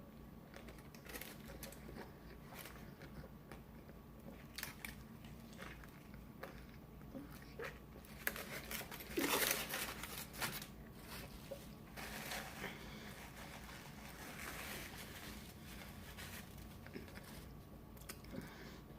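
A person eating a double-patty burger: soft chewing with scattered mouth clicks, and a wrapper crinkling, loudest about halfway through.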